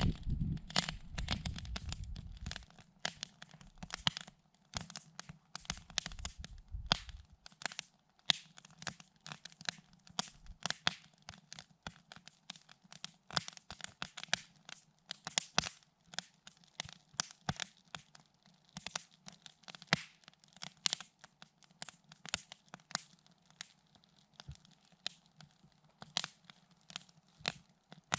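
Wood campfire crackling, with irregular sharp snaps and pops, over a low rumble that fades out in the first several seconds.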